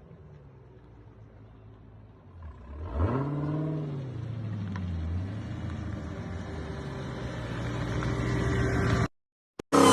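Dodge Challenger SRT V8 idling quietly, then revved once about three seconds in, the pitch rising and falling back. It then runs steadily, growing slowly louder, until the sound cuts off suddenly near the end.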